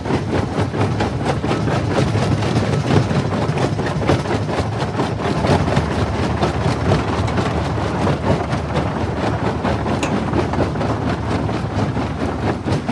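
Jaw rock crusher running under load: a steady low machine drone with constant cracking and knocking as stone is broken between its jaws.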